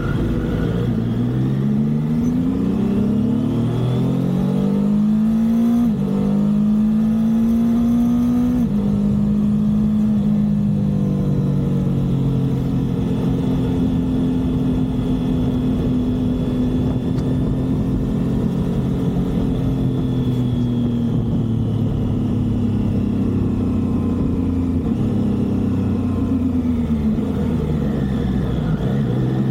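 Triumph motorcycle engine pulling up through the gears, its pitch climbing in steps with short dips at each upshift, then holding steady at cruising speed before slowly dropping off and climbing again near the end, over a constant rush of wind.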